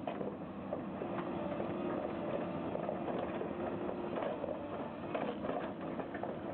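Heavy machinery, such as an excavator working a stump attachment, running steadily with a held mechanical hum and scattered metallic clicks and knocks.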